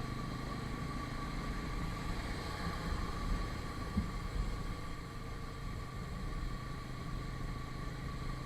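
Steady low engine and road rumble of a motorcycle ride, with a thin, steady high whine over it. There is one sharp knock about four seconds in.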